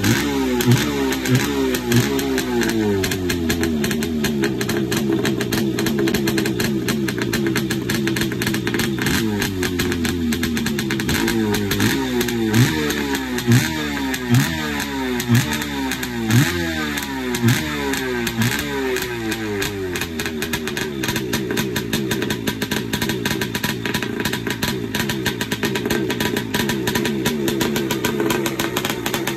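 Kawasaki 650 X2's 650cc two-stroke twin engine revving in repeated throttle blips, its pitch falling back after each one, then settling into a steadier run for the last several seconds.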